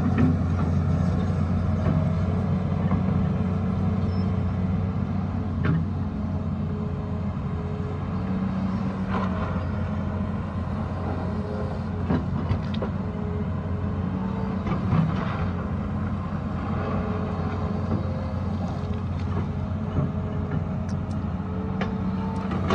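Excavator's diesel engine running steadily under work, with a hydraulic whine that comes and goes as the arm moves. A few knocks of the bucket against rock.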